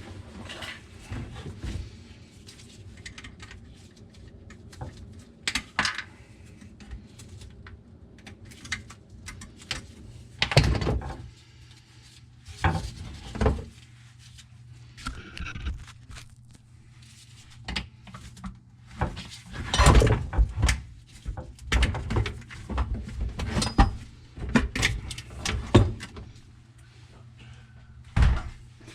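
Irregular knocks, clanks and thuds of tools and parts being handled while a garbage disposal and its plumbing are taken out from under a kitchen sink, over a low steady hum. The clatter is busiest in the second half.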